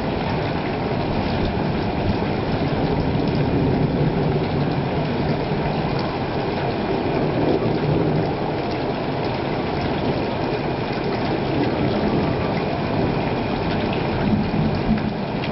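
Steady rushing storm noise with no distinct thunderclap, at an even level throughout.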